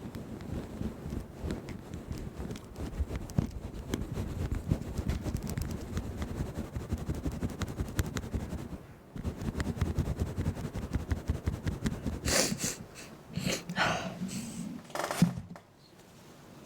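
Close crackling, rustling noise with many small clicks on the microphone. Near the end come three short hissing bursts like breaths or blowing.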